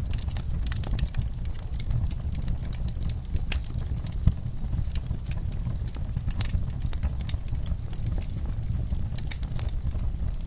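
Wood fire in a fireplace crackling: irregular snaps and pops over a low steady rumble of the flames, with one sharper pop about four seconds in.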